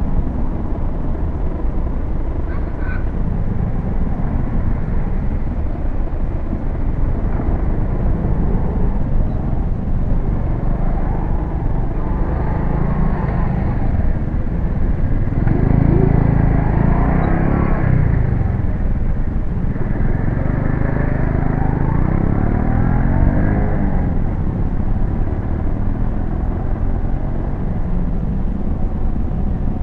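Road traffic passing close by, heard through the tiny onboard camera microphone of a quadcopter lying on the road: a car and a motorcycle go past, their engine notes rising and falling as they pass, about halfway through and again shortly after. A steady low rumble runs underneath.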